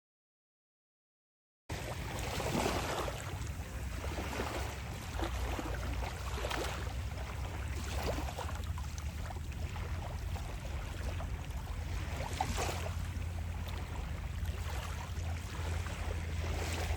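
Surf washing and wind at the seashore over a steady low rumble, the waves swelling louder every few seconds. The sound cuts in after a second or two of silence.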